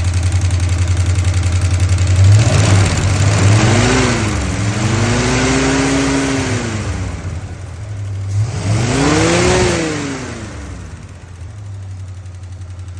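Car engine that sat for years running with a loud top-end valvetrain noise. It idles, is revved up and back down twice, then settles to idle. The noise comes with almost no oil reaching the top end: the owner suspects a bad lifter and no oil pressure.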